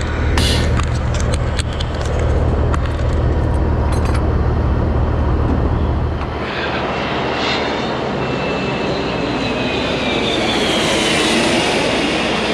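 Engine noise: a steady low drone with light clicks that drops away about six seconds in, followed by a high whine that slowly falls in pitch.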